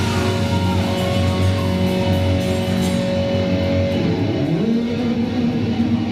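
Rock band playing live, led by electric guitar holding long sustained notes, then sliding up to a new held note about four seconds in.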